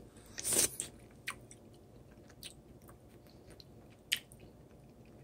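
A person biting into and chewing a piece of fried teriyaki catfish: one louder bite about half a second in, then faint, scattered chewing clicks.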